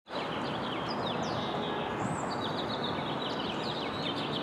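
Small birds chirping busily, many quick falling chirps, over a steady background of outdoor noise.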